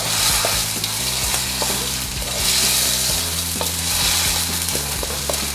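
Ground chicken sizzling in hot vegetable oil in a wok. A wooden spatula scrapes and taps as it breaks the meat apart, with scattered small clicks over the steady hiss.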